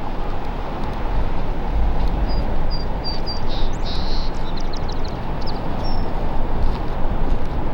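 A steady low rushing noise on an open outdoor trail, with birds chirping and calling over it. The calls come as a quick series of short high chirps and a few harsher calls in the middle of the stretch.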